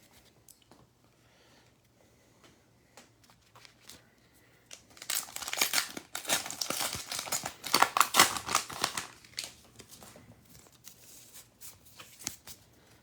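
A foil trading-card pack wrapper being torn open and crinkled, a dense rustle lasting about four seconds in the middle, with faint card-handling clicks before and after.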